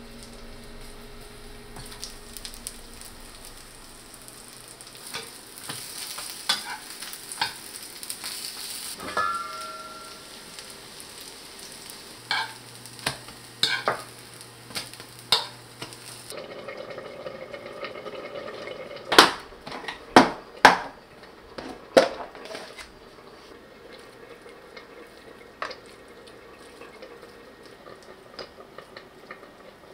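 Chive pancake batter sizzling as it fries in oil in a frying pan, with a spoon and spatula scraping and tapping the pan. Later come about five loud, sharp clinks of utensils or dishes in quick succession, then a few lighter ticks.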